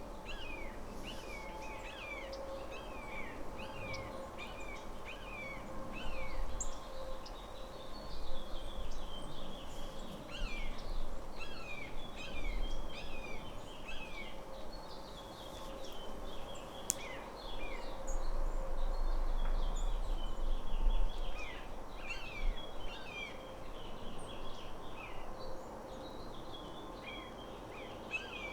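Small songbirds chirping over and over, many short falling chirps overlapping as from several birds at once, over a faint steady hum.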